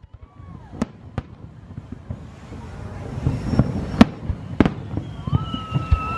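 Fireworks display: four sharp bangs of shells bursting stand out over a continuous crackle and rumble that grows louder. A steady high whistle starts near the end.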